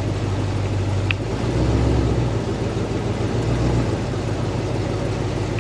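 Ram 1500's 5.7 Hemi V8 running through newly fitted long-tube headers, a loud low exhaust rumble heard from inside the cab at low speed; the rumble swells deeper twice, briefly.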